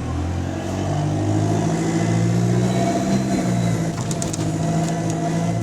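Bus engine pulling away, its note rising for about three seconds, dropping briefly at a gear change, then pulling on again, with a few light rattles near the end. The bus has an exhaust leak.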